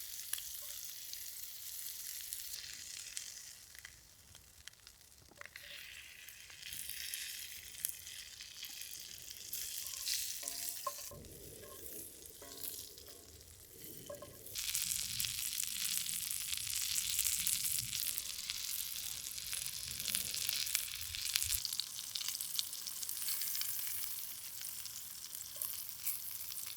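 Baby potatoes in garlic herb butter and bacon-wrapped dates frying in a cast iron skillet, sizzling and crackling steadily; the sizzle grows louder about halfway through.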